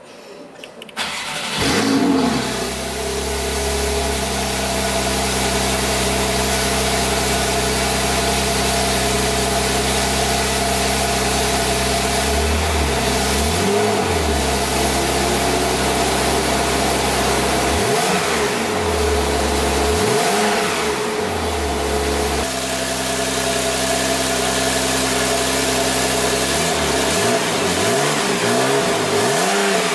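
2017 Porsche 911 Carrera's 3.0-litre twin-turbocharged flat-six starting up about a second in, flaring briefly and settling to a steady idle. It is revved in short blips: once about twelve seconds in, twice around eighteen to twenty-one seconds, and in a quick series near the end.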